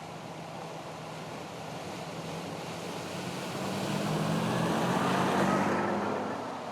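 A motor vehicle passing by: its engine hum and tyre noise grow louder to a peak about five seconds in, then fade, over a steady wash of background noise.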